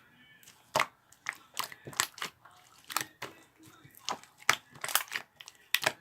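Slime being squeezed and poked by hand, giving a run of irregular sharp pops and clicks.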